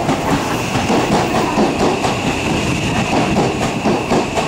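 Odakyu electric commuter train moving slowly past the platform, its wheels clicking over the rail joints. A steady high whine sets in about half a second in.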